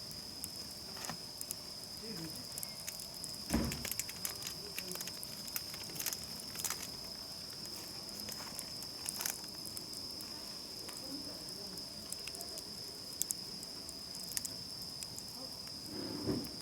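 Wood campfire crackling with scattered sharp pops, one louder about three and a half seconds in, over a steady high chirring of insects.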